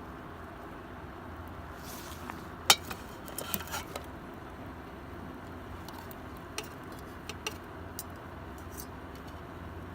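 Scattered light clicks and clinks of camping gear being handled, the sharpest about three seconds in and a short cluster just after, over a steady low background rumble.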